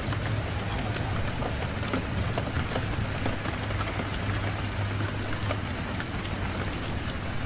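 Fireplace fire crackling: a steady hiss with many small, scattered sharp pops, over a low steady rumble of wind.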